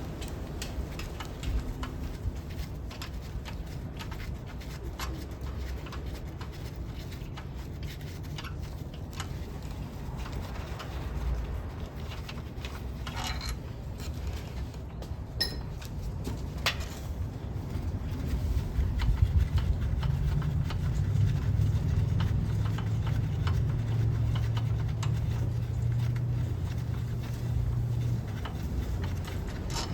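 Scattered light clicks and clinks of hand tools working the head bolts loose on a 3.8 V6 engine. A low steady hum comes in a little past halfway and drops away near the end.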